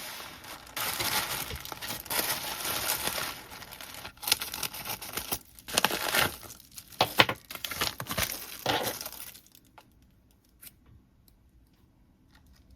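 Packaging crinkling and tearing as a parcel is unwrapped, with sharp rustles and rips. It stops about nine and a half seconds in, followed by a few faint light clicks.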